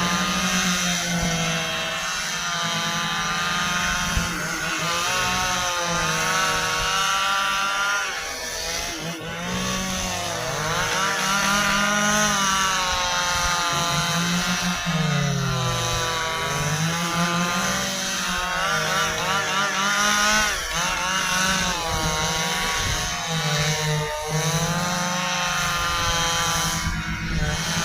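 Stihl chainsaw cutting through a dry ipê log; the engine note keeps sagging and climbing again as the chain works under load in the hard wood.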